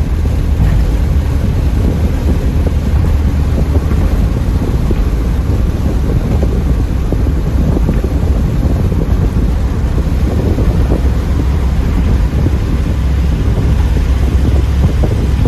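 Steady driving noise from a 1984 Pontiac Trans Am at cruising speed: a constant low engine and road rumble, with wind buffeting the microphone.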